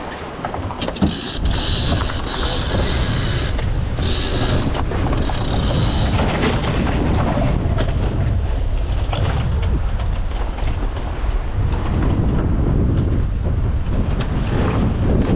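A sailboat winch ratcheting in two spells of rapid clicking as a line is winched in, over steady wind rumble.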